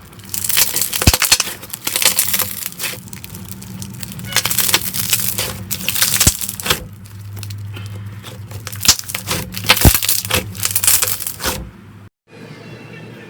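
Slime being squeezed and pressed, crackling and crunching in repeated bursts of sharp clicks; it cuts off abruptly about twelve seconds in.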